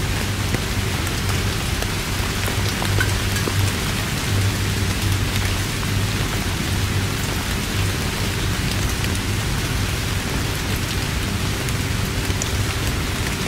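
Heavy rain falling steadily, with many small drop ticks close by and a steady low rumble underneath.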